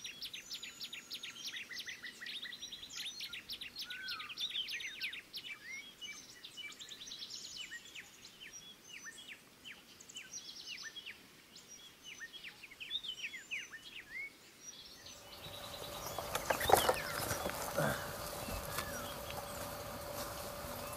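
Wild birds calling, a dense run of quick high chirps and falling notes. About fifteen seconds in the sound changes to a louder, noisier background with a steady hum under a few more calls.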